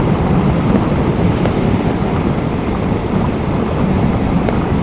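Steady wind rush on the microphone while riding a Zero DSR/X electric motorcycle, with no engine note under it.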